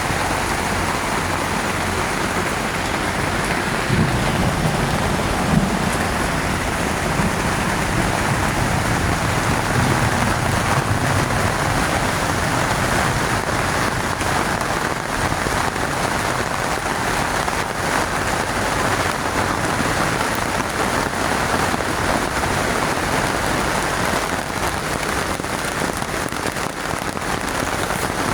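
Heavy, steady rain beating on a tent, the downpour that is leaking in through holes in the tent. A low rumble runs under it from about four to eleven seconds in.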